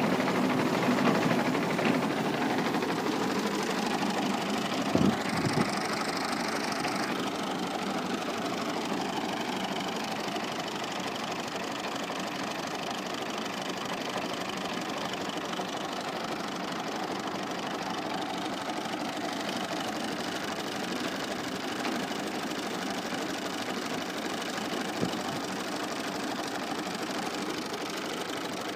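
Al-Ghazi farm tractor's diesel engine running steadily, growing somewhat fainter over the first several seconds and then holding level. A couple of sharp knocks come about five seconds in.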